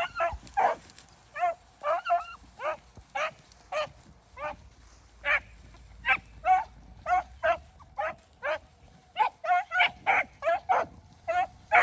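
A pack of beagles baying as they run a rabbit track: a steady stream of separate barks, about two to three a second, some of them wavering in pitch, from more than one dog.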